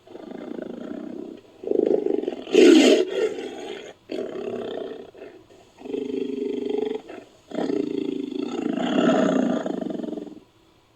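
Bengal tiger roaring in a series of about five drawn-out calls with short pauses between them, the loudest about three seconds in.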